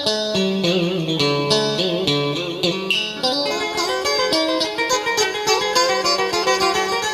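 Instrumental music led by a plucked guitar, playing a melody of quick changing notes.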